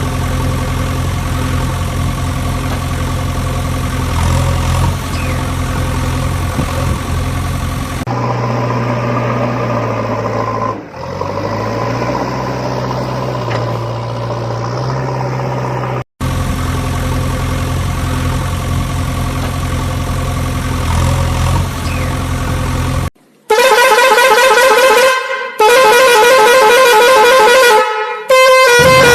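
A vehicle engine running steadily, with abrupt cuts between clips, then three loud blasts of a warbling vehicle horn near the end.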